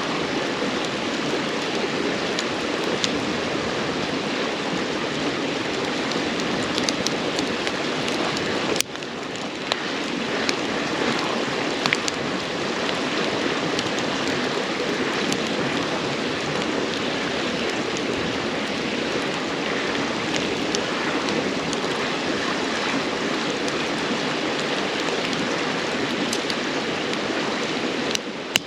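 A river's steady rushing with the scattered crackles and pops of burning firewood. The sound dips briefly about nine seconds in and swells back.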